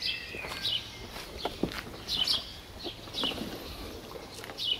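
Small birds chirping: short, high, falling chirps repeated every half second or so, with a few sharp clicks and a faint low rumble underneath.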